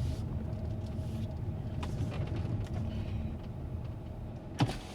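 Hyundai Sonata's engine and road rumble heard from inside the car, low and steady, easing off as the car slows. A single sharp click sounds near the end.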